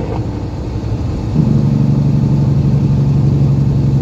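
Semi truck's diesel engine heard from inside the cab: a low rumble that, about a second and a half in, turns into a louder, steady drone at an even pitch.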